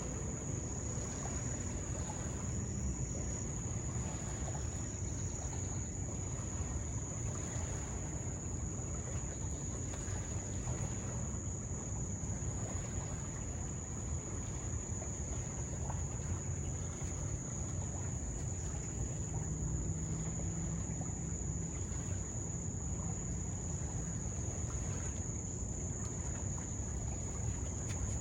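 Insects on a summer riverbank singing one steady, unbroken high-pitched note, over a continuous low rumble.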